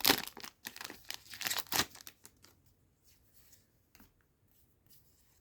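Foil trading-card booster pack being torn open and crinkled, a quick run of crackling for about two seconds that thins to a few faint rustles and ticks.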